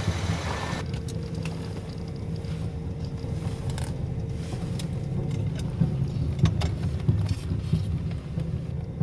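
BMW sedan's engine idling with a steady low rumble, with scattered light clicks and knocks of someone rummaging about in the car's cabin.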